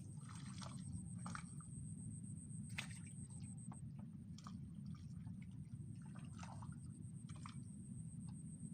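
Faint scattered drips and small splashes of water over a steady low rushing background, with a thin high whine throughout.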